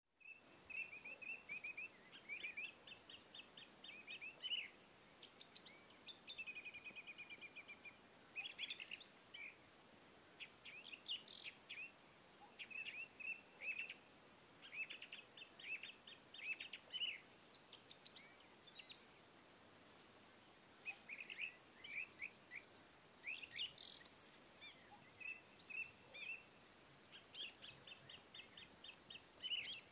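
Small birds chirping: strings of short, quick high chirps and trills that come and go, likely a background birdsong sound-effect track.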